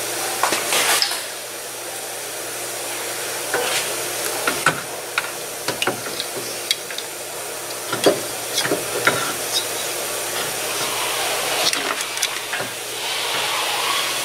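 Scattered light clicks and knocks of a Genesis G80's new electric (MDPS) power steering rack being handled and fitted up against the subframe, over a steady background hiss.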